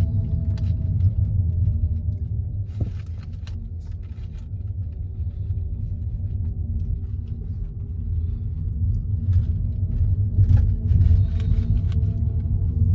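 Car driving along a road: steady low rumble of road and engine noise inside the cabin, with a faint humming tone that drifts slowly in pitch.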